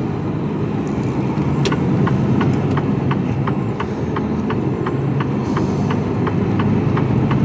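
Mercedes-Benz Actros truck's diesel engine running steadily at low speed, heard inside the cab. From about two seconds in, the turn-signal indicator ticks evenly, about three ticks a second.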